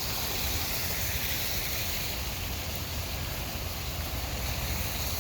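Steady, even rushing noise with a low rumble underneath, unbroken throughout.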